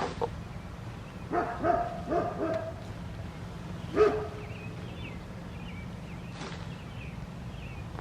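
A dog barking: a quick run of about four barks a little over a second in, then one louder single bark about four seconds in.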